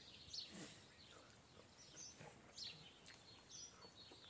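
Near silence with faint bird chirps now and then.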